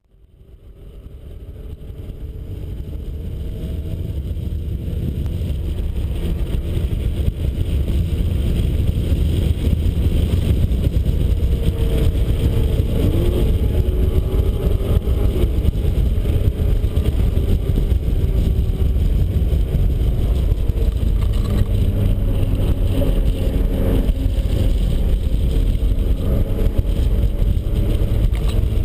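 Turbocharged 1991 Mazda Miata's engine and exhaust running, heard from on board the car as a steady, heavy low rumble. It fades in over the first few seconds.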